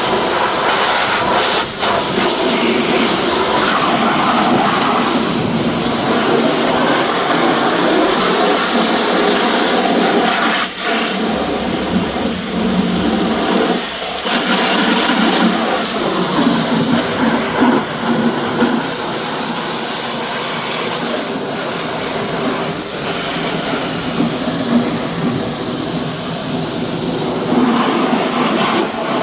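Car-wash equipment running steadily with a loud rushing hiss, broken by a few brief dips.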